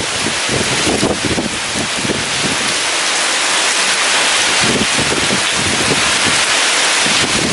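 Heavy rain falling in a steady loud hiss, with strong wind gusting in uneven surges underneath.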